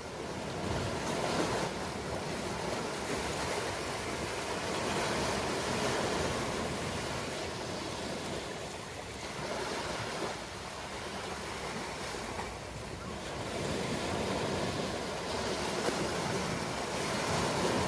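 Ocean waves breaking and washing on a shore, a steady rushing surf that swells and eases every few seconds.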